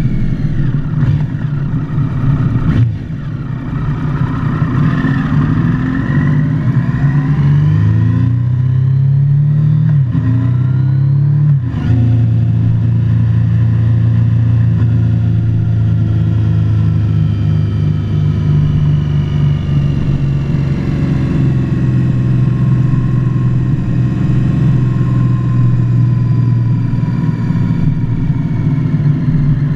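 Motorcycle engine pulling up through the revs, its pitch rising steadily, then a gear change drops the revs sharply at about twelve seconds. After that it runs steadily at cruising speed, the pitch slowly falling as it eases off.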